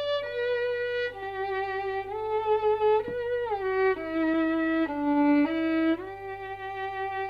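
Solo violin playing a slow melody one note at a time, each note held about a second, with a gliding slide down a little past the middle.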